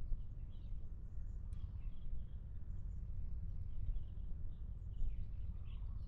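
Faint, scattered high bird chirps over a steady low outdoor rumble.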